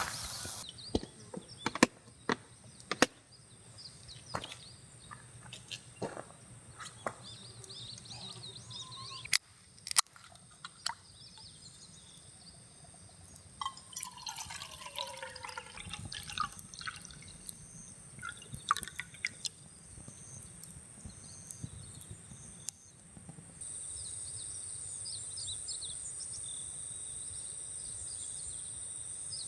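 Liquid pouring and dripping, with scattered sharp clicks and knocks, over a steady high-pitched insect drone that grows louder near the end.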